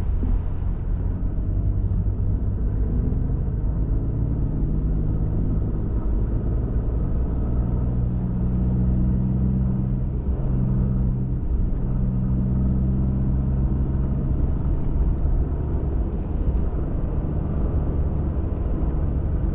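Pickup truck driving on a trail: steady engine drone with road and tyre rumble, the engine note stepping up and down a few times as the speed changes.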